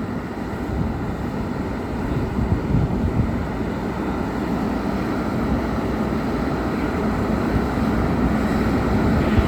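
Fire apparatus diesel engine running steadily, a continuous low rumble.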